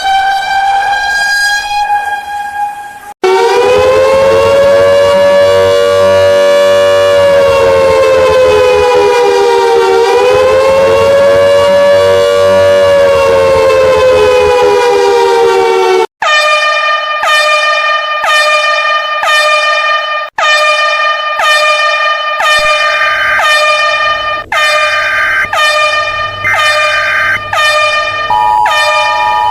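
A run of electronic emergency-alert alarm tones. A steady horn-like tone cuts off about three seconds in. A long siren tone follows that wavers, sagging and rising for about thirteen seconds, and then a pulsed alarm tone repeats about once a second, with a second higher tone joining near the end.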